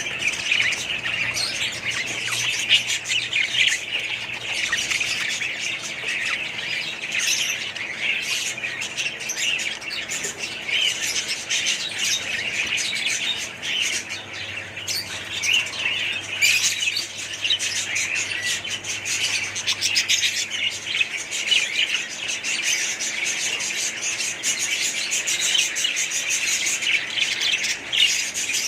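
Dense, continuous chirping and chattering of many budgerigars together, a flock-wide din with no pauses.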